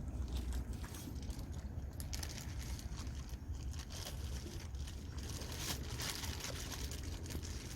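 Outdoor wind rumbling on the microphone, with patches of fine crackling in the higher range a couple of seconds in and again past the middle.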